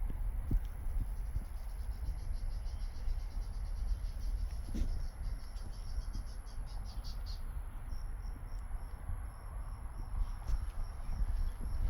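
Insects calling in dry marsh grass: a fast run of high chirping pulses for several seconds, then slower, evenly spaced chirps about three a second, over a steady high buzz.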